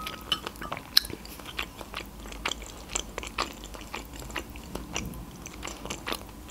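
A person chewing a mouthful of food with her lips closed, close to the microphone: many small, irregular wet mouth clicks.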